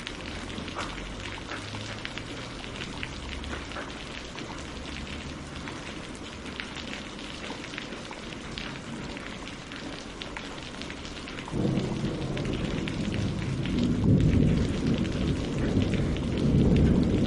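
Steady rain falling, with fine ticks of single drops. About two-thirds of the way in, a low rumble of thunder comes in suddenly and grows louder toward the end.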